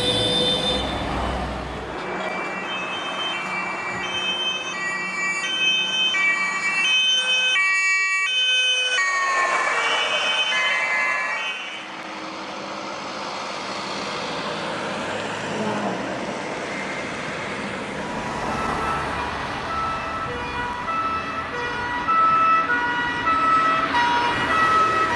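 German fire engine's two-tone siren sounding as it drives through traffic, its tones switching back and forth between two pitches.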